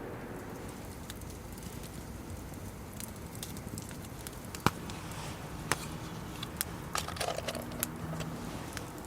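Wood campfire crackling: a low steady hiss with scattered sharp pops that come more often in the second half, one louder pop about halfway through.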